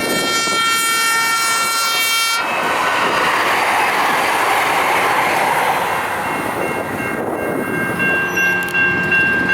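Light rail train horn sounding a steady chord that cuts off sharply about two and a half seconds in, followed by the rushing wheel and rail noise of the train going by. A steady high tone starts again near the end.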